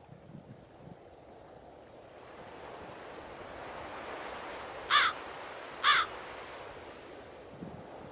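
A bird gives two short, harsh calls about a second apart, over a soft ambient hiss of wind and surf that swells and then fades.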